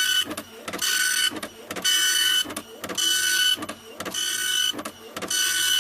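Printer running: a whining mechanical pass about once a second, each lasting about half a second, with quieter clicking in between.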